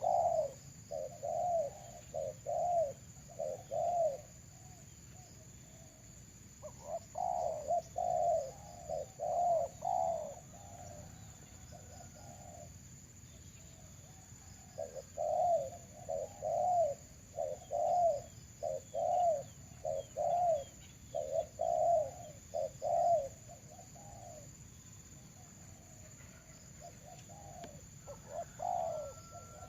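Doves cooing in runs of short, repeated coos, several bouts of notes with pauses of a few seconds between them.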